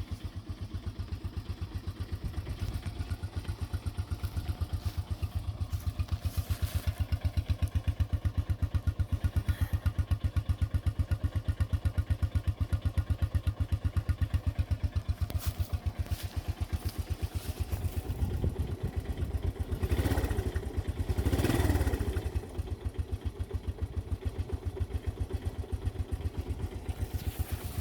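Honda TRX125 four-wheeler's single-cylinder four-stroke engine idling with the choke fully off, warming up after a cold start. Its firing is steady and even, and it gets briefly louder about twenty seconds in.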